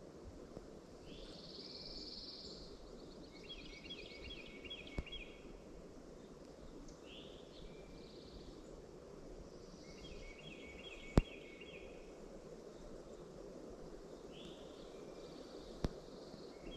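A songbird sings the same short phrase about every six seconds: a slurred high note followed by a quick series of repeated notes. A steady rush of wind noise runs underneath, with a few sharp clicks.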